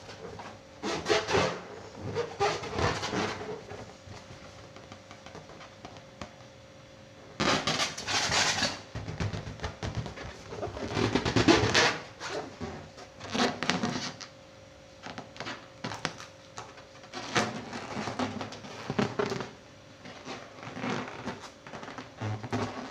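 Rubber balloons rubbed by hand, squeaking and scraping in repeated bursts of a second or two with short pauses between, over a faint steady hum.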